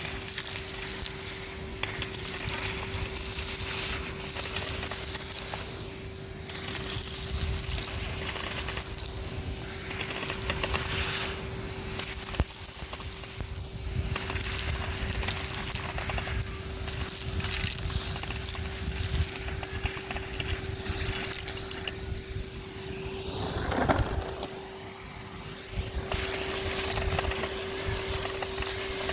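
Numatic Henry HVR200-22 vacuum cleaner running with a steady motor whine while sucking up debris from the street, which crackles and rattles through the hose on and off. The sound softens briefly near the end.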